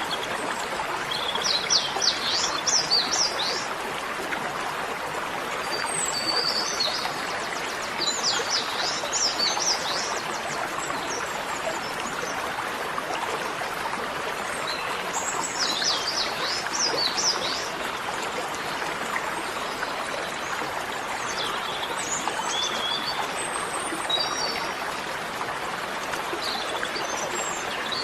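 Birds chirping in short clusters of quick high notes every few seconds over a steady rush of running water.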